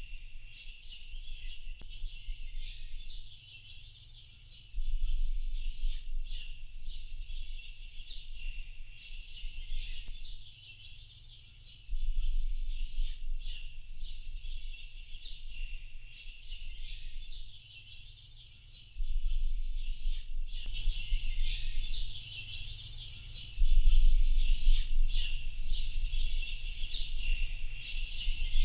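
A dense, continuous chorus of small birds chirping and twittering. Under it, a low rumble swells and drops back every few seconds.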